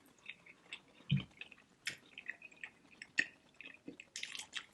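Close-miked wet mouth sounds: scattered small clicks and lip smacks, with a soft low thump about a second in.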